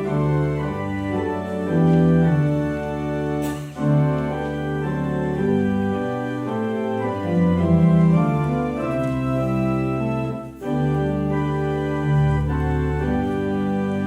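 Organ playing slow, sustained chords that change every second or so, with two brief breaks between phrases.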